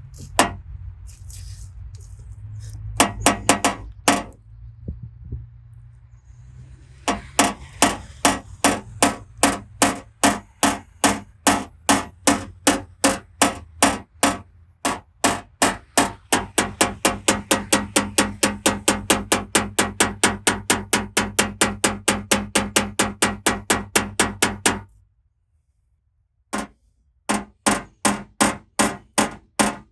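Rapid, steady tapping on a car's sheet-metal panel with a paintless-dent-repair hammer and knockdown tool, about three sharp metallic taps a second, with a pause between runs. The tapping is knocking down the high spots around the dent.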